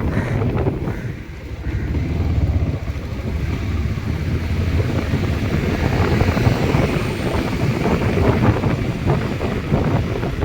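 Wind buffeting the microphone over the low rumble of a motorcycle riding along the road, briefly easing about a second in.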